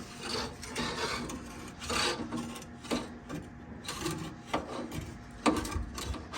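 A heavy steel suspension part scraping and rubbing against the bus frame as it is pried and inched through, with a few sharp knocks along the way.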